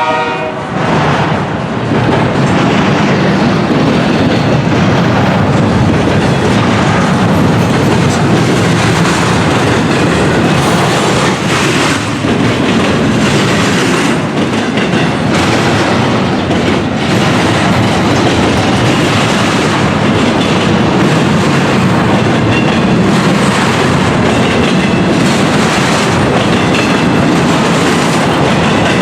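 Intermodal freight train cars rolling past close by, a steady rumble with the clickety-clack of wheels over rail joints. The tail of a locomotive horn blast cuts off at the very start.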